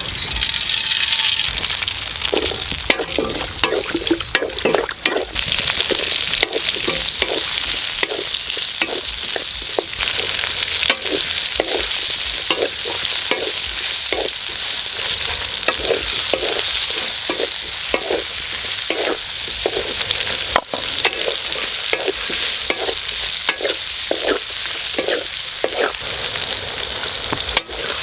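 Food frying and sizzling in a pan while a utensil stirs and scrapes it, about twice a second, over a steady hiss.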